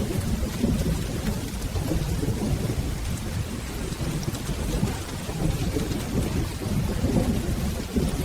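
Steady rain over a low, continuous rolling thunder rumble.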